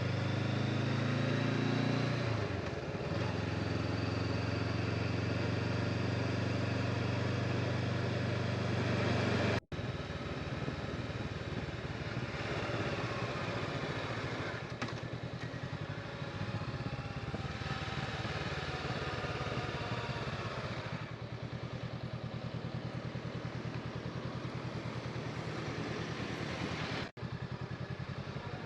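Honda motorcycle engine running under load while riding up a steep mountain road, its pitch shifting with the revs and dipping briefly about two and a half seconds in. The sound drops out sharply twice, near ten seconds and shortly before the end.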